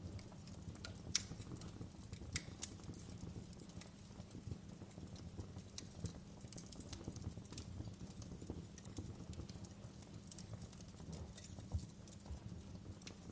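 Fireplace crackling: irregular pops and snaps over a low, steady rumble of burning wood, with the sharpest pop about a second in.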